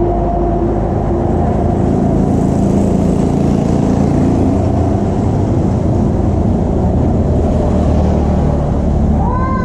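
Steady street traffic noise, a dense low rumble of motor vehicle engines. Near the end a pitched sound with several overtones sweeps up and holds.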